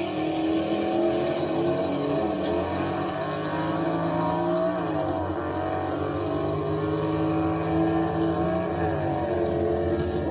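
Car engine running steadily, its pitch dipping and rising briefly a couple of times as it is revved.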